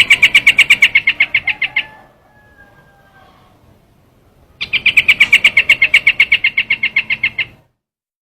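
Call of the bird known in Vietnamese as trao trảo, played as a lure recording. It comes in two loud bursts of rapid repeated chattering notes, about a dozen a second: a short burst at the start and a longer one of about three seconds from halfway through. A faint thin whistle sounds between them.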